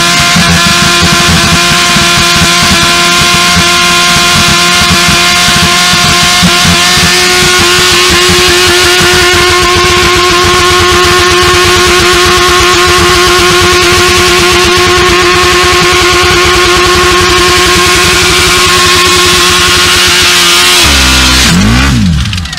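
Motorcycle engine held at steady high revs through a long burnout, with its rear tyre spinning in heavy smoke. A couple of seconds before the end the revs drop abruptly and fall away as the overstressed engine gives out and the bike catches fire.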